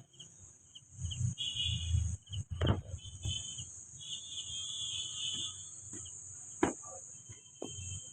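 Steady high insect-like chirring, like crickets, with repeated shorter chirps over it and a couple of sharp knocks.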